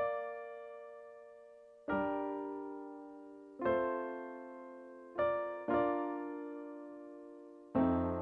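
Solo piano playing slow, sustained chords, each struck and left to ring and fade before the next, about every one and a half to two seconds, with a quick pair of chords a little past halfway.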